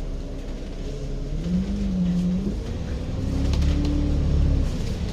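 Street traffic: a vehicle engine running and revving up, its pitch rising about a second and a half in, with a heavier low rumble swelling about three seconds in as it pulls past.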